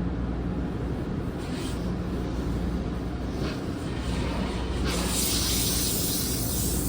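Tunnel car wash heard from inside the car: a steady low rumble, then about five seconds in a loud hiss of water spray jets hitting the car.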